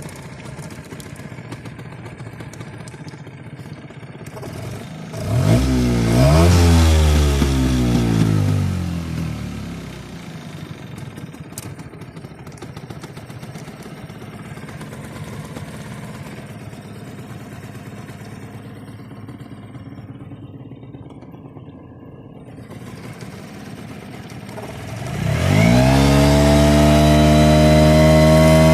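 Parus 5 hp two-stroke outboard motor idling, revved up about five seconds in and let fall back to idle a few seconds later. Near the end it is opened up again and held at a steady higher speed.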